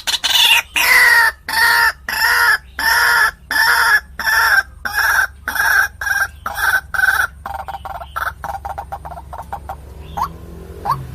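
White-breasted waterhen (ruak-ruak) calling: a loud series of harsh, repeated notes, about two a second. After about seven seconds the notes turn shorter, quicker and weaker.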